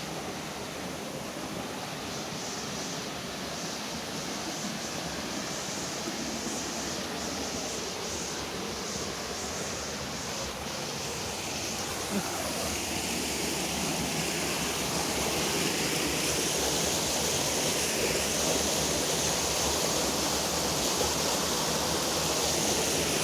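Steady rush of flowing river water, growing louder over the second half.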